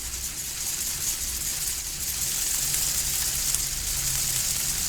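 Steady high-pitched hiss with a low hum underneath, unchanging throughout.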